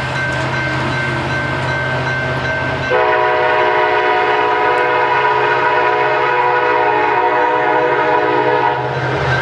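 Freight train running past with a steady low rumble, then a locomotive air horn sounding one long chord about three seconds in, held for about six seconds before cutting off near the end.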